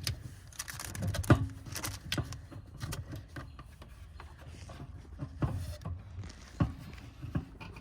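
Handling noises: scattered light clicks, knocks and rubbing as a new rubber sealing ring is worked by hand into place around the fuel tank's filter opening, over a low steady rumble.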